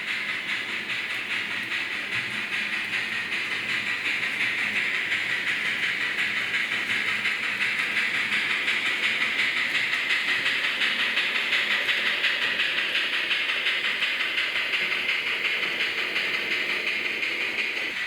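Märklin H0 model steam locomotive running with its train: a steady, fast-pulsing steam-chuff hiss over the rattle of small wheels on track. It grows louder toward the middle as the train comes by, then eases off.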